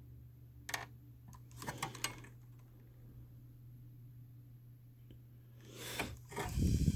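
Handling noise from an air conditioner's control box and its parts: a few sharp clicks in the first two seconds, then louder clattering and rubbing near the end, over a low steady hum.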